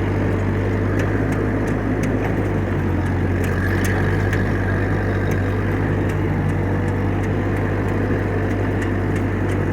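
1956 Massey Ferguson F40 tractor running steadily under load, driving a bush hog rotary cutter through the grass: a continuous low engine drone that holds an even pitch.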